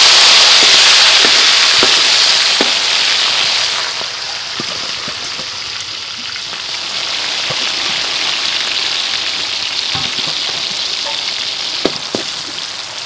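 Seasoned shell-on shrimp sizzling as they go into hot oil in a metal wok. The sizzle is loudest at first and settles to a steady frying hiss after about four seconds. A few light knocks of the metal slotted spoon against the wok sound through it.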